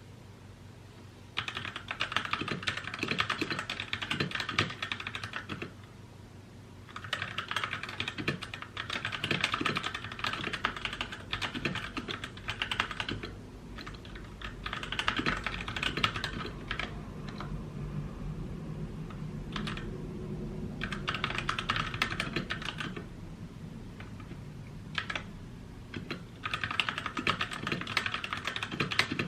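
Typing on a mechanical keyboard: rapid runs of key clicks in spurts of a few seconds each, broken by short pauses and a few single keystrokes.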